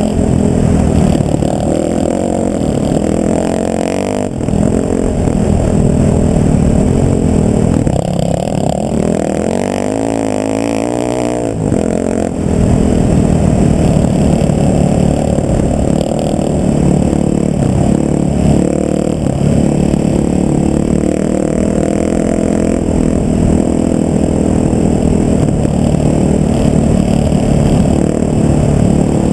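Motor vehicle engine running steadily under way, with road noise. Partway through, the engine pitch dips and then climbs again, as when slowing and accelerating.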